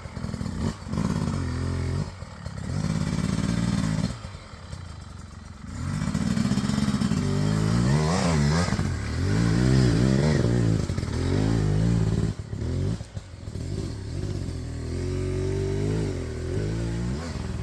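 Dirt bike engine revving up and down repeatedly on the throttle, dropping back toward idle about four seconds in, then revving hard again through the middle.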